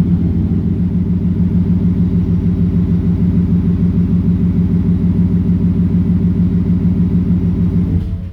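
Ford F150's 5.0 Coyote V8 idling steadily on a semi-cold start, with a deep, even exhaust pulse through a Borla XR-1 Sportsman muffler with no resonator and dual exhaust. The sound stops abruptly near the end.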